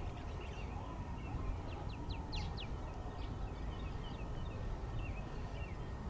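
Small birds chirping in many short, quick calls over a steady low rumble, with a faint tone slowly falling in pitch behind them.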